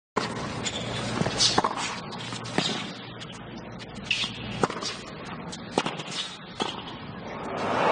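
Tennis point under way: sharp, irregularly spaced racquet strikes and ball bounces over a low stadium crowd hum, with the crowd starting to cheer near the end.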